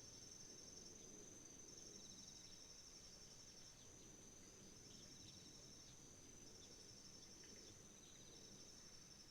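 Autumn insects calling: one continuous high-pitched trill, a second trill that starts and stops, and short pulsed chirp phrases repeating every few seconds, over a faint low rush of flowing river water.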